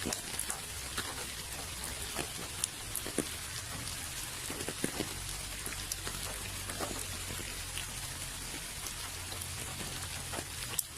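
Steady rain falling, with many separate drops landing close by as irregular clicks over the hiss, and a low steady rumble underneath.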